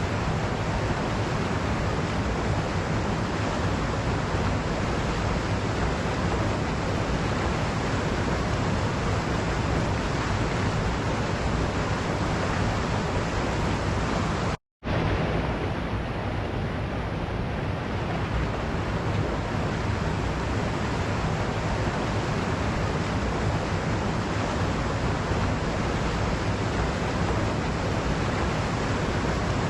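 Waterfall rushing in a steady, unbroken roar of falling water. The sound cuts out completely for a split second about halfway through, then resumes unchanged.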